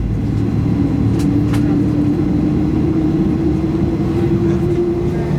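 Boeing 737-800's CFM56-7B jet engines heard from inside the cabin while taxiing, a steady hum with one strong tone that rises slowly in pitch as thrust is added. A couple of faint clicks come a little over a second in.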